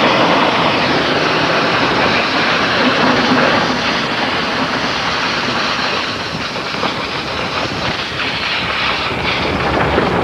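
Washing machine dragged on a chain behind a moving truck: a loud, continuous scraping and rattling clatter of the metal cabinet over the ground.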